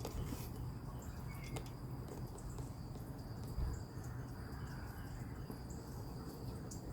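Insects trilling steadily in one high unbroken tone, with a few brief high chirps scattered through and a low outdoor rumble underneath.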